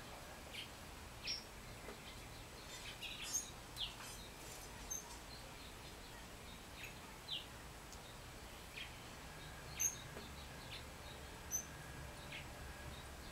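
Small wild songbirds giving short, scattered chirps and call notes, some dropping quickly in pitch, over a steady low background rumble.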